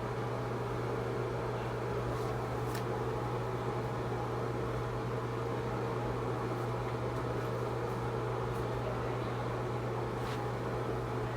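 Steady low hum over an even hiss, like a fan or small appliance running, with a few faint ticks.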